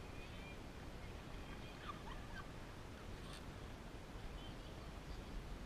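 Faint bird calls, a few short chirps and gliding notes, over a steady low rumble of wind on the microphone.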